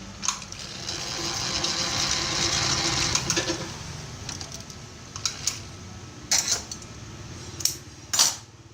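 Workshop handling of metal fan parts: a hissing, whirring stretch of about two and a half seconds, then several sharp metal clicks and knocks.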